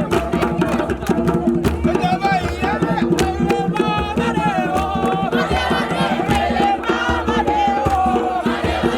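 A group of voices singing a chant together over sharp, frequent percussion beats.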